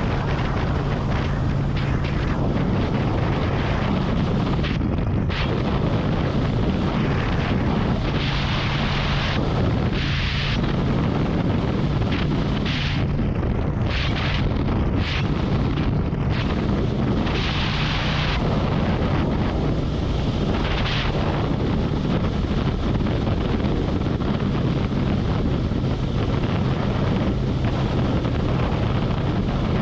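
Harley-Davidson Road Glide motorcycle riding at highway speed: a steady low engine drone under heavy wind rush on the microphone, with several brief surges of louder hiss in the middle.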